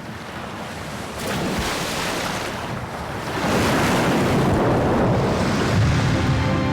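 Sea waves surging and washing in, with a first swell about a second in and a louder one from about three and a half seconds in.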